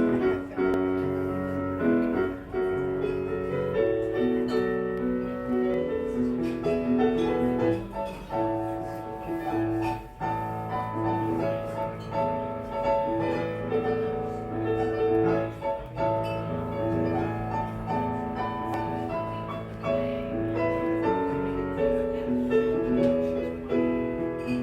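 Piano music: a flowing melody over held chords.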